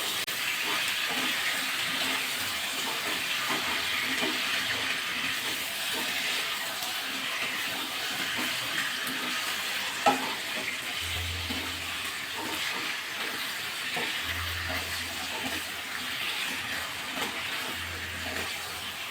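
Marinated chicken sizzling in hot oil with fried onion and ginger-garlic paste as it is stirred in the pan, a steady hiss, with a sharp knock of the spatula on the pan about ten seconds in.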